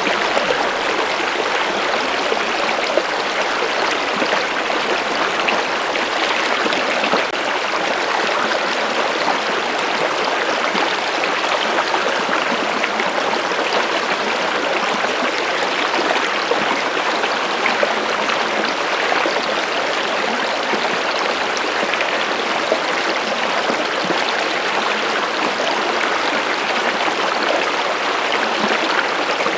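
Stream water flowing in a steady, unbroken rush with a fine babbling crackle.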